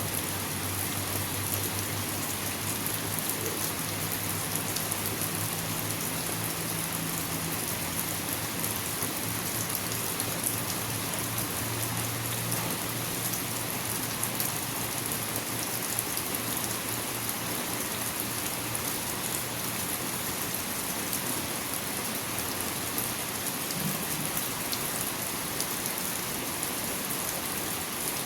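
Steady rain falling, an even hiss thick with small drop ticks. A faint low hum sits under it for the first two-thirds.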